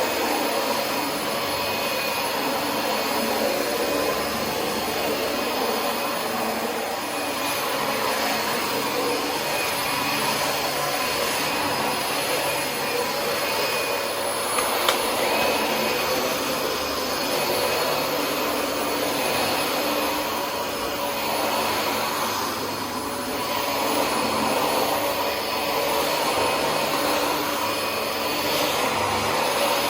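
Dyson DC25 upright vacuum cleaner running, a steady motor whine over rushing air, swelling and easing slightly as it is pushed back and forth over the floor. A brief click about halfway through.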